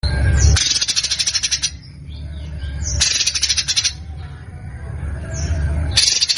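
Songbird giving harsh, rapid rattling bursts, three of them about a second long, with softer chirps between, over a low rumble.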